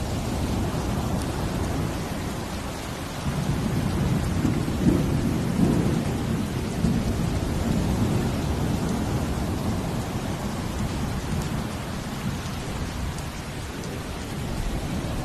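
Steady heavy rain with a deep low rumble that swells about three seconds in and fades over the next several seconds, like surf or distant thunder.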